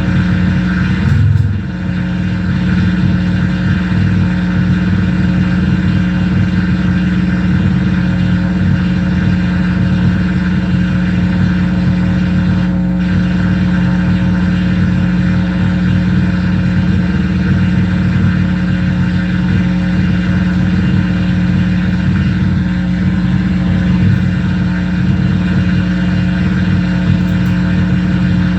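Loud, steady electronic noise drone from a mixer-feedback noise rig with reel-to-reel tape and reverb. A dense stack of held tones sits over a rough, fluttering low end, with a brief shift about a second in before it settles.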